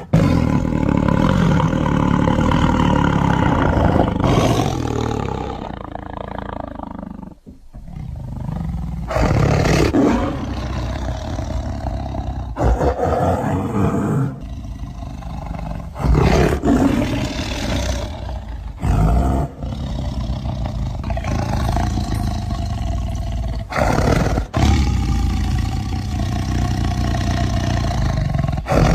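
Tiger roaring and growling in a series of edited clips, the sound changing abruptly every few seconds and dropping away briefly about seven seconds in.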